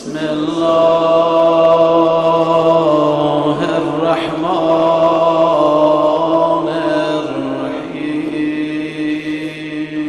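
A man's voice chanting dhikr in long, drawn-out held notes. A brief break comes about four seconds in, and the pitch steps down near eight seconds.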